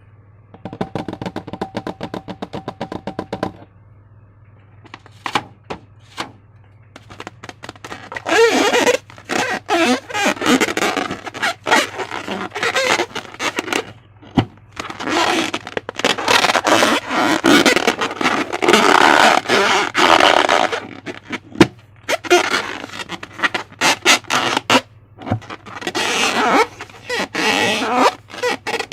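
Close-up handling of slime: repeated one-to-two-second bursts of sticky crackling and clicking as it is squeezed and stretched, over a low steady hum. Near the start there is a shorter run of rapid clicks.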